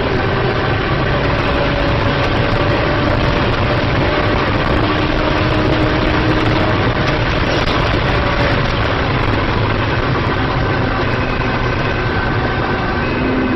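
Steady, loud vehicle engine noise with a few faint, slightly wavering tones running through it.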